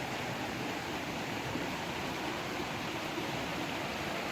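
Rushing water: a steady, even hiss of flowing water that does not change.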